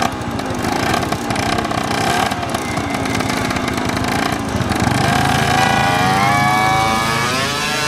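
Quad bike engine running, its pitch wavering at first, then rising steadily through the second half as it speeds up.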